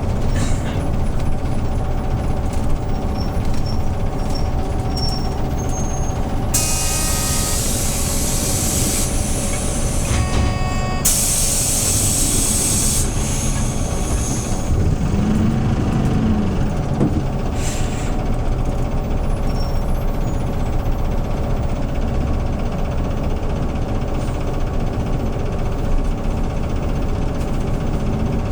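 Hyundai New Super Aero City CNG bus engine running steadily, heard from inside the cabin, with two long blasts of compressed-air hiss from the bus's pneumatics, one about six seconds in and the other about eleven seconds in. Near the middle, the low engine hum briefly rises and falls.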